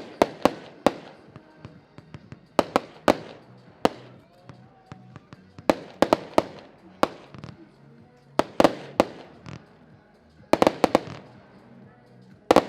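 A Diamond Hellfire firework battery (305-shot cake) firing: sharp bangs in quick groups of two to four, one group every couple of seconds, each bang trailing off in an echo.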